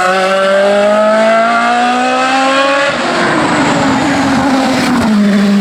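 Race car engine at full throttle, rising steadily in pitch, then an upshift about three seconds in. The pitch drops and the engine note turns rougher before pulling again.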